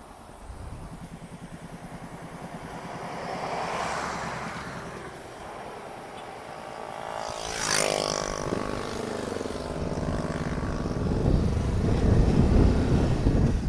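Motorcycle riding on a highway, its engine and wind noise growing much louder in the second half as it gathers speed. About eight seconds in, a vehicle passes close by with a brief whoosh, its pitch dropping as it goes.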